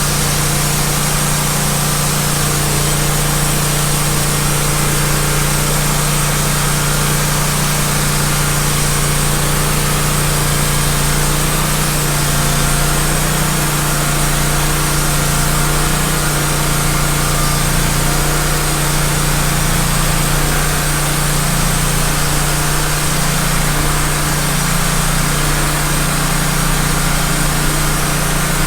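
Wood-Mizer LT15 band sawmill running steadily, its blade sawing through a log.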